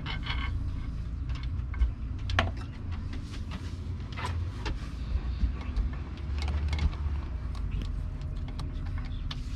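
Scattered small clicks and taps of the lower unit's oil drain screw being put back and threaded in by hand, over a steady low rumble.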